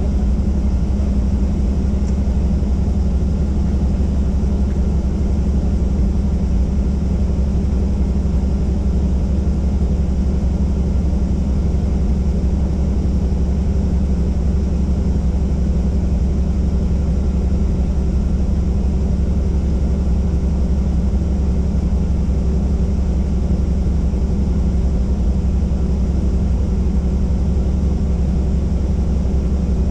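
Helicopter's engine and rotor noise heard from inside the cabin: a steady, loud low drone with several steady tones above it.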